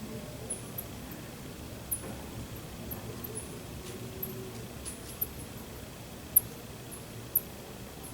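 Fruit bat giving short, very high-pitched squeaks, roughly one or two a second at irregular intervals, with a few louder ones in the second half, over a low steady background hum.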